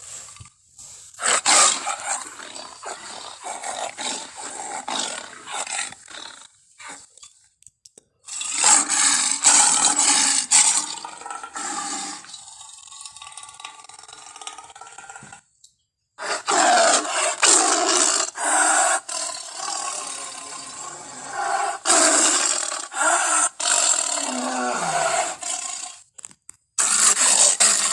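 Big-cat roars and growls, lion, tiger and leopard recordings cut together, coming in several long bouts with short breaks between them and a quieter growl in the middle.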